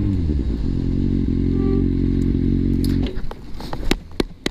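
A motor vehicle engine running at a steady speed, its pitch dipping slightly at the start, cuts off abruptly about three seconds in. Several sharp clicks and knocks follow.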